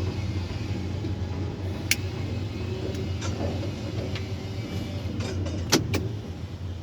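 Steady low mechanical hum, with one sharp click about two seconds in and two more close together near the end.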